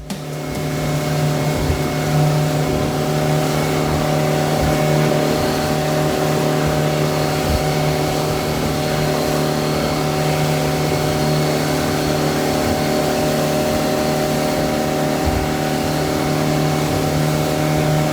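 Fishing boat's engine running steadily at cruising speed, with wind and water rushing past the hull.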